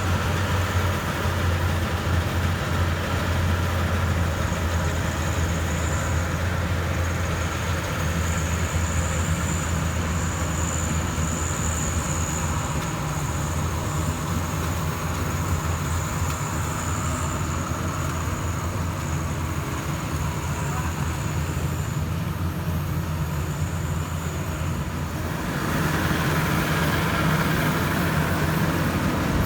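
Maxxi Bimo 102 rice combine harvester running steadily, with a deep engine drone and a thin high whine over it. The whine fades and the machine noise shifts near the end.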